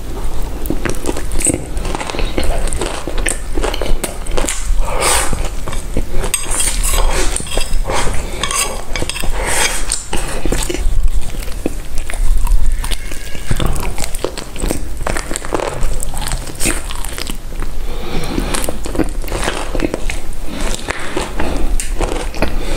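Close-miked eating sounds: repeated biting and chewing with crackly crunches and small clinks of cutlery or dishes.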